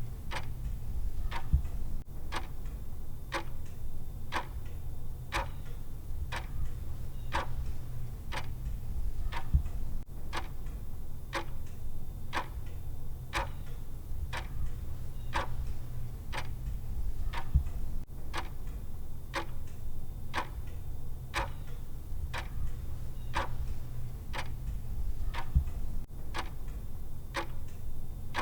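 Clock-style timer ticking steadily, about two ticks a second, over a low steady hum.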